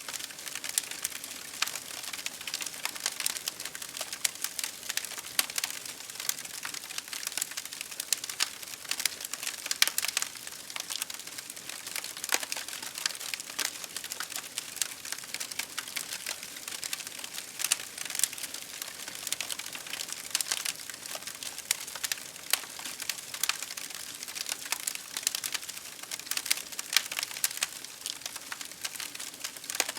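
Wood fire crackling: a dense, irregular stream of small pops and snaps over a steady hiss.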